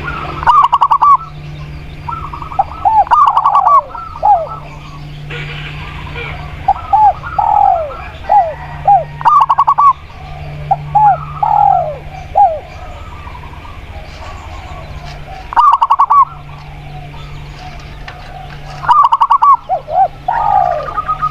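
A spotted dove and a zebra dove calling in turn. Their phrases repeat every few seconds: quick clusters of high notes alternate with short falling coos. A steady low hum runs underneath.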